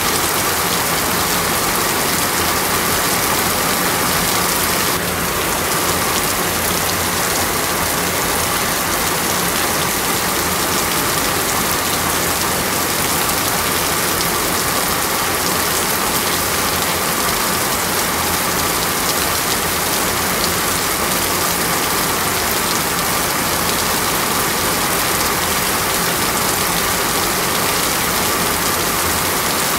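Rain falling steadily on a flooded street, with motor traffic running underneath.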